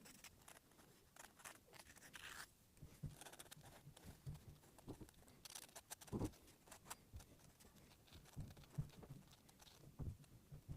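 Faint scratchy strokes of drawing on paper, with scattered light taps and clicks; the longest stroke comes about two seconds in.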